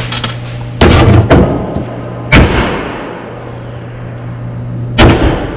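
Loud metal bangs and clanks from handling and striking transmission parts during a teardown: a quick cluster of hits about a second in, a sharp bang with a ringing tail a little after two seconds, and another hit near the end, over a steady low hum.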